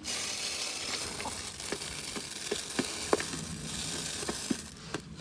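Chickens pecking at feed: irregular sharp taps over a steady hiss that cuts in suddenly and stops shortly before the end.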